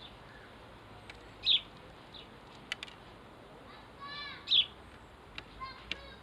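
House sparrows chirping: two loud, short chirps about a second and a half in and again near four and a half seconds, with fainter calls and a few sharp clicks between.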